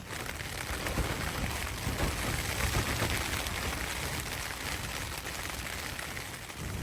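Rain and gusting wind on a tent: a steady hiss with a rumbling, uneven low end as the gusts rise and fall.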